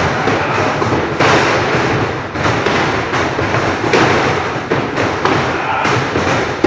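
Repeated heavy thuds of wrestlers' bodies hitting the wrestling ring, irregularly spaced, from tackle drills.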